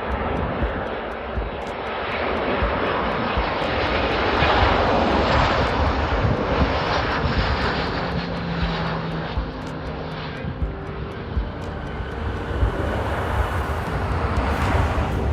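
Boeing 737-800 airliner landing, its CFM56-7B turbofan jet engines giving a steady rushing jet noise that swells about four to seven seconds in as it passes, then eases.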